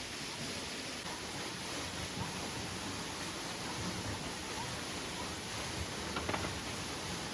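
Steady hiss of heavy rain, with a short knock about six seconds in.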